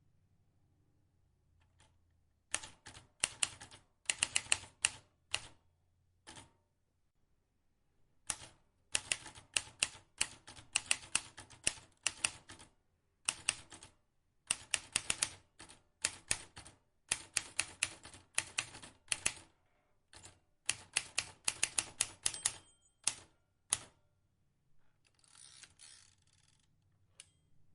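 Vintage typewriter being typed on: quick runs of sharp key clicks and strikes in bursts of a second or two, separated by short pauses. Near the end comes a softer, longer rasping stretch.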